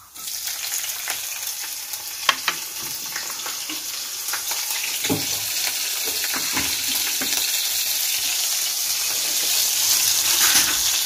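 Green chillies and cumin seeds sizzling in hot oil in a kadhai. The sizzle starts suddenly as the chillies go in, then runs on steadily as they are stirred, growing a little louder near the end. A few knocks of the spatula against the pan sound about two and five seconds in.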